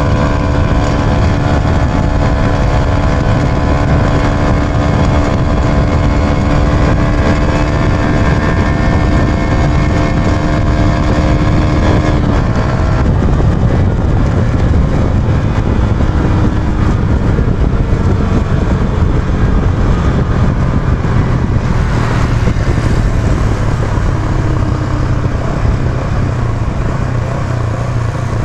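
Yamaha YB125Z DX's single-cylinder four-stroke engine running at a steady speed while riding, under heavy wind rumble on the microphone. About twelve seconds in, the steady engine note breaks off and mostly wind and road noise remain.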